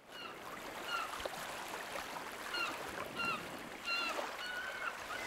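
Short bird calls, each with a slight downward hook, repeating about every half second to a second over a steady rushing background. The sound fades in at the start.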